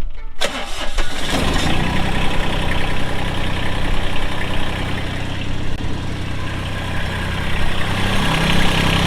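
Massey Ferguson GC1705 compact tractor's three-cylinder diesel engine starting about half a second in, then running steadily at idle. It has just been restarted after a fuel filter change.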